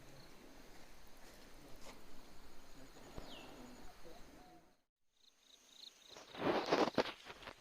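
Faint outdoor background with a single short falling chirp. Near the end comes a burst of knocks and clatter lasting under a second, from the Diana 34 Classic break-barrel spring air rifle being worked.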